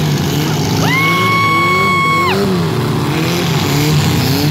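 Demolition derby car engines revving up and down. A single long, steady horn blast starts about a second in and lasts about a second and a half.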